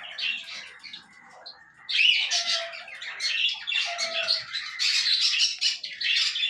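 A group of budgerigars chirping and chattering in busy bursts, with a short lull about a second in.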